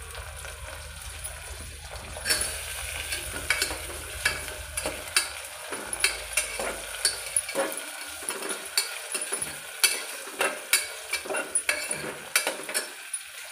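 Potato pieces frying in hot oil with onion and spices in a pressure cooker, sizzling, while a spoon stirs them and scrapes and clicks irregularly against the cooker, the clicks starting about two seconds in.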